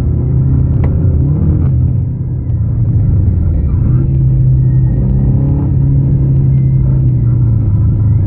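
Rally car's engine and road rumble heard from inside the cabin while driving on a snow-covered road. The engine note dips briefly about two seconds in, then holds a steady pull and drops slightly near the end.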